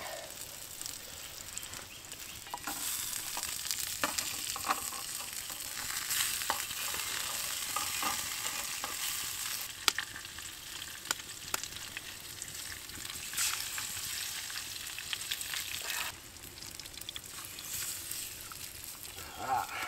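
Scarlet elf cup mushrooms with primrose and wood sorrel frying in oil, sizzling steadily while being stirred, with sharp clicks of the utensil against the pan. The sizzle drops a little about three-quarters of the way through.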